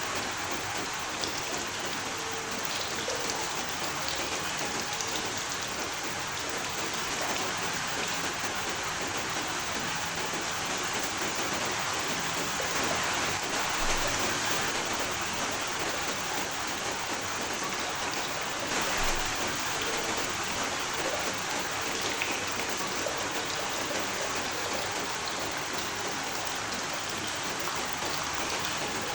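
Steady rain falling, a dense even hiss that swells slightly twice, about halfway through and again a few seconds later.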